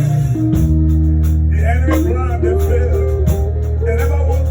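Church worship band music: sustained bass notes under regular drum hits, with a wavering melody line coming in about one and a half seconds in.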